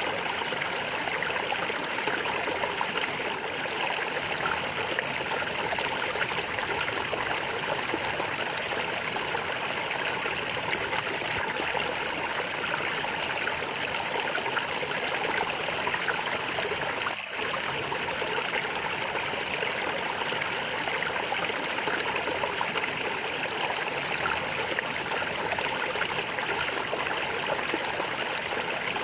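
Water flowing and gurgling steadily in a stream, with a momentary dip in level about two-thirds of the way through.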